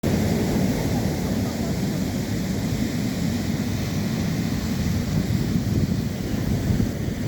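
Wind buffeting the microphone over the wash of sea surf: a steady, low rumbling noise that flutters constantly.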